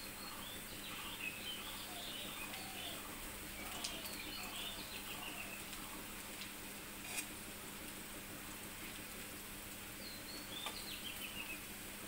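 Dal pakoras frying gently in a shallow layer of oil in a metal kadai, with a few sharp clicks as a steel spatula turns them against the pan. Birds chirp in short runs in the background.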